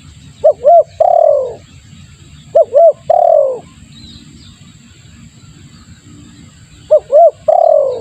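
Spotted dove cooing: three phrases a couple of seconds apart, each two short coos followed by a longer coo that falls in pitch.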